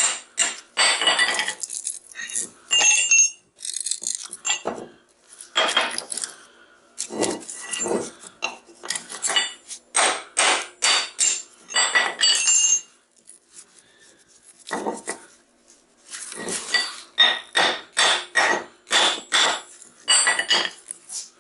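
Metal parts of a scrap transformer being knocked and handled, many sharp metallic clinks and clanks with a short ringing after each, coming in clusters with brief pauses.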